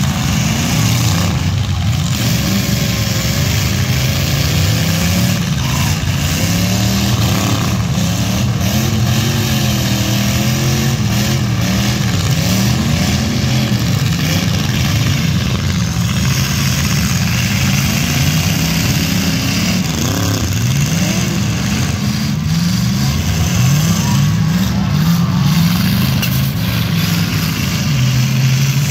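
Several demolition derby cars' engines revving hard together, their pitches rising and falling as they accelerate and back off.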